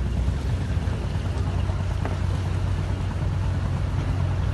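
Cruise boat's engine running with a steady low drone.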